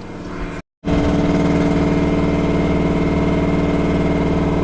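Boge shop air compressor running steadily. It breaks off for a moment under a second in, then carries on louder and even.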